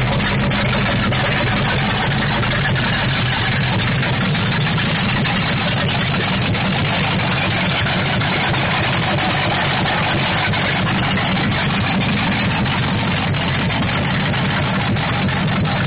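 Chevrolet El Camino engine idling steadily just after being started, loud through straight-piped exhaust with no mufflers.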